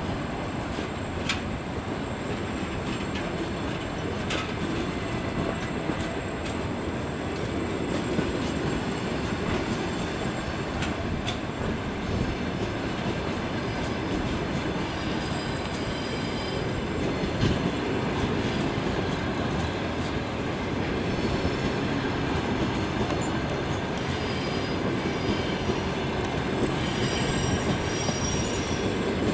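Passenger coaches of a departing train rolling past at low speed, wheels rumbling steadily on the track with scattered clicks over the rail joints. A faint high wheel squeal comes in near the end.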